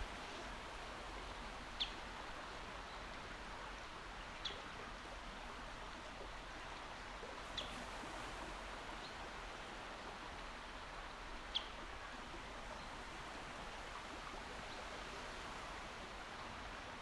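Steady, even wash of a calm sea. A bird gives a short, high chirp about four times, a few seconds apart.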